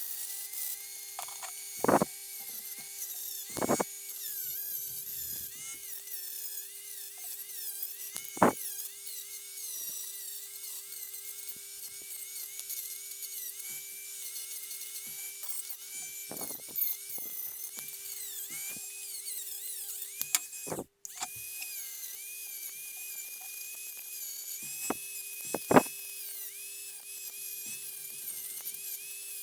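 Small high-speed rotary tool running with a steady whine, its pitch dipping and recovering as it bears on the work, with a few sharp knocks of parts or tools set down.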